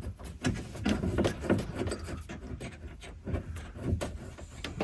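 Irregular light clicks, taps and rubbing of metal parts being handled and seated inside a truck door as a window regulator is fitted back into place.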